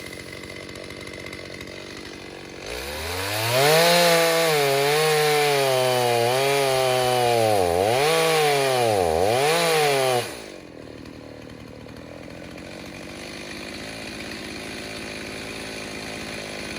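Rebuilt Stihl 029 two-stroke chainsaw with a 45 mm cylinder idling, then revved to full throttle and held in a cut through wood. Its pitch sags and recovers under load, dipping sharply twice near the end of the cut. It then drops back to idle about ten seconds in.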